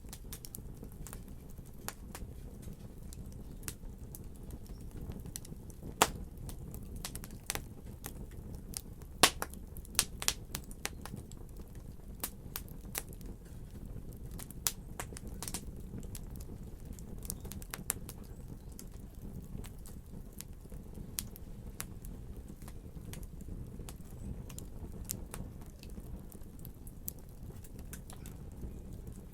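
Fire crackling in a fireplace: irregular sharp pops and snaps over a steady low rumble, with a cluster of louder pops from about six to eleven seconds in.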